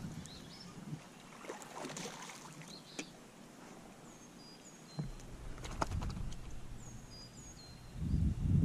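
Kayak handling sounds: a few light knocks and clicks on the hull, then water and movement noise swelling near the end. Short high chirping calls repeat from about halfway through.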